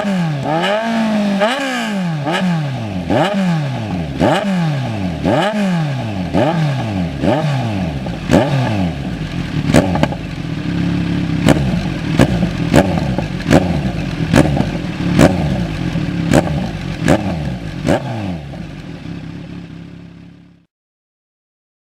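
Kawasaki motorcycle engine through an SC-Project aftermarket exhaust, blipped repeatedly with about one quick rev a second. It then runs more steadily with sharp pops and crackles every half second or so, and fades out near the end.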